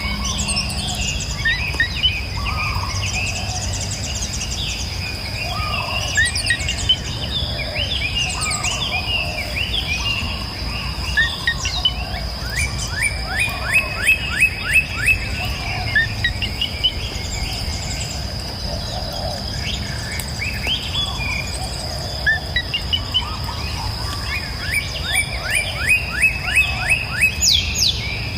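Several songbirds chirping and singing, with a rapid trill of quick repeated notes, about five a second, in the middle and again near the end. A steady high-pitched tone and a low, even rushing background run beneath the birdsong.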